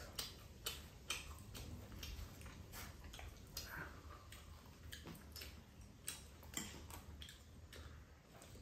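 Faint, irregular clicks and smacks, one or two a second, from people chewing food at the table.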